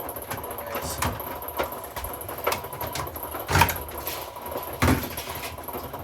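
Hoover washing machine running mid-wash, a steady hum broken by irregular knocks and clunks, two of them louder in the second half; the owner says it is making a lot of weird noises.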